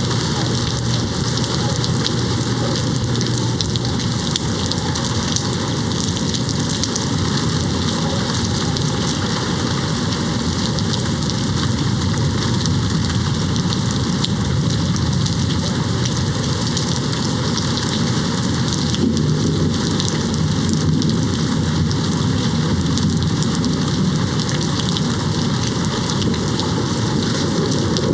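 Steady rain falling on a window: a dense, even wash of drops with no let-up.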